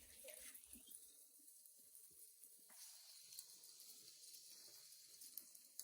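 Near silence with a faint steady hiss.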